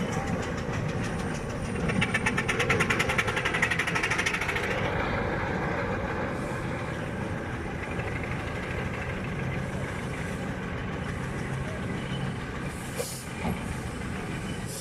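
Steam traction engine running close by, with a fast, regular beat about two seconds in that fades after about three seconds, over a steady mechanical rumble.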